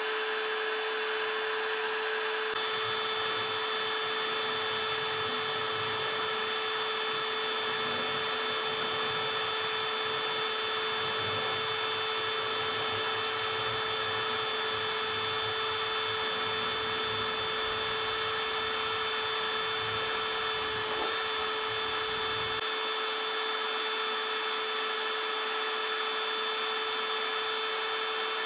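Small electric motor or power tool whining continuously at a steady high pitch, with a low rumble under it for most of the time.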